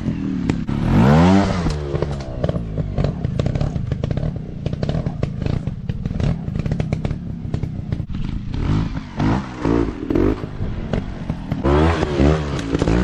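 Dirt bike engine revving: one strong rev about a second in, then a run of short, quick revs in the last few seconds, with rattling clatter throughout.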